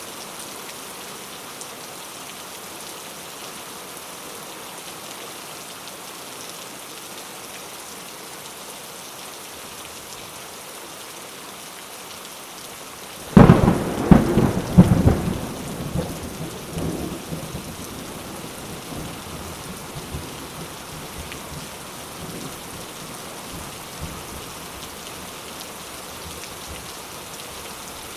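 Steady rain on a coconut-leaf thatched roof. About halfway through, a sudden thunderclap breaks out with several sharp cracks, then rumbles and fades back into the rain over a few seconds.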